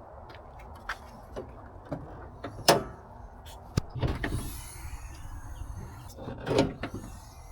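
Tools and gear being handled: a series of separate knocks and clunks, the loudest a little under three seconds in, over a low steady hum, with a wavering high whine from about halfway.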